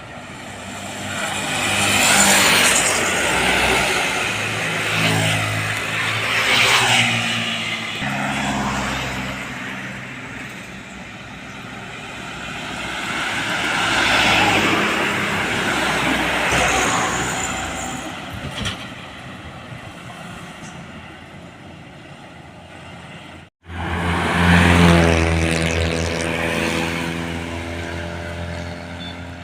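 Heavy trucks and buses driving past on a road one after another, each engine and its tyres swelling and fading as it goes by, with the engine note dropping as it passes. An abrupt cut near the end brings in another heavy vehicle's engine running close.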